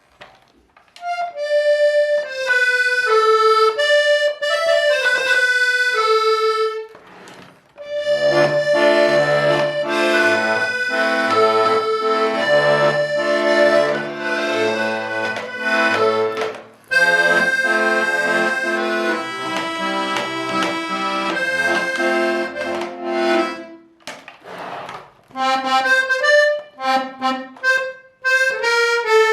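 Hohner Corona II three-row diatonic button accordion being played before tuning: a treble melody alone at first, then the melody over bass and chord notes, then melody notes again. It is out of tune and could use a few new valves.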